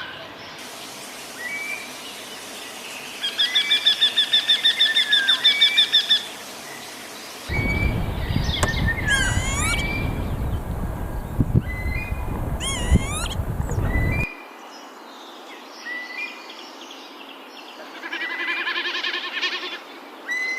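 Several bird calls in turn: short chirps repeated every second or so, and a fast loud run of calls lasting about three seconds. Swooping high calls follow over a heavy low rumble, and near the end comes another quick series of calls.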